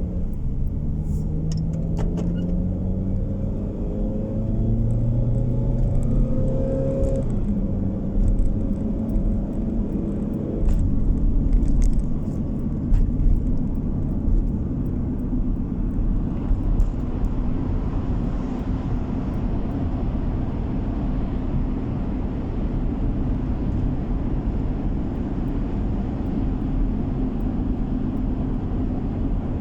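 Car driving, heard from inside the cabin: the engine note rises as the car accelerates for the first several seconds, drops twice, then settles into a steady rumble of engine and tyre noise.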